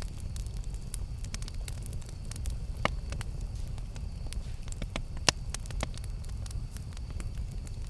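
Campfire burning with a steady low rumble and scattered small crackles, two sharper pops standing out about three and five seconds in.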